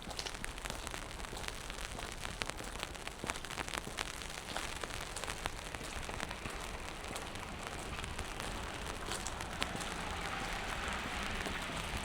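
Rain falling on wet pavement: a steady hiss with many scattered drips and patters. A broader hiss swells near the end.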